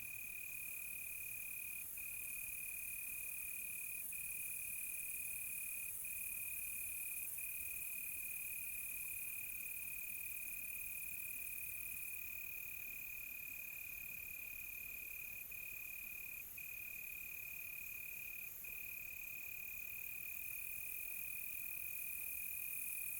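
Crickets trilling at night in one steady high tone, with a short break every few seconds, over a fainter, higher insect hiss.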